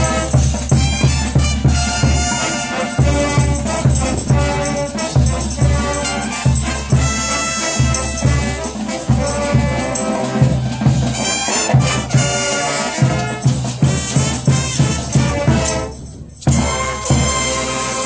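A brass band playing cumbia, with a steady bass beat, brass and shaken percussion. The music briefly cuts out about sixteen seconds in, then comes back.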